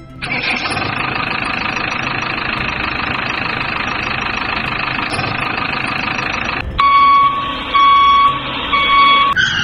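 Toy JCB's electronic engine sound playing steadily for about six and a half seconds. It is followed by three pitched reversing-style beeps.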